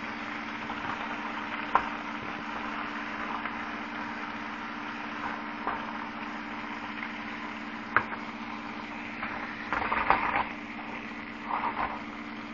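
Chicken pieces frying in a pan of grease, sizzling steadily over a constant low hum. There are two sharp utensil clicks against the pan, one about two seconds in and one about eight seconds in, and two short bursts of scraping and stirring near the end.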